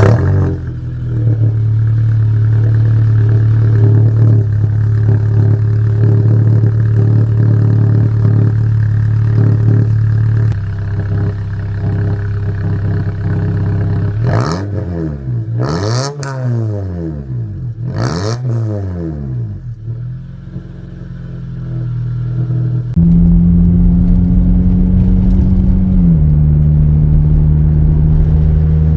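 Honda Accord engine with its muffler deleted, its exhaust loud: a raised idle just after starting that settles about ten seconds in, three quick throttle blips in the middle, then held at higher revs near the end, dropping back slightly.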